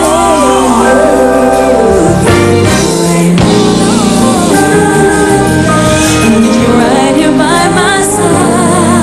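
Live gospel-style music: a lead vocal sings wavering, ornamented runs over a choir and band.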